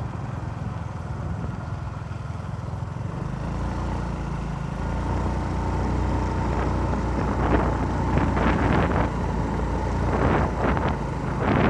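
A motor vehicle's engine running steadily while on the move. It gets a little louder about four seconds in, with rough rushing noise in the second half.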